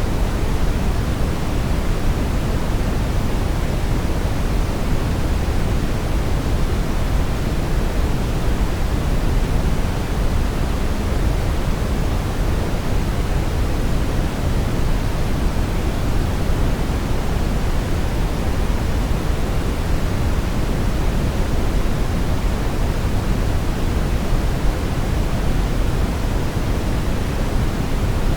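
Steady brown noise: an even, unbroken hiss weighted heavily toward the bass, with no changes or events.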